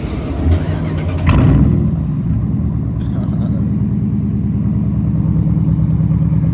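Straight-piped 5.7-litre Hemi V8 exhaust of a Jeep Grand Cherokee: a sharp rise in engine sound a little over a second in, then a steady, deep, evenly pulsing idle.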